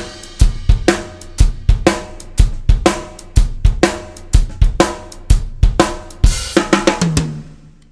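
Drum kit playing a standard shuffle groove: a shuffled hi-hat figure with bass drum on 1 and 3 and the snare backbeat on 2 and 4, at a steady tempo. A little after six seconds in, it ends on a cymbal crash that rings out and fades.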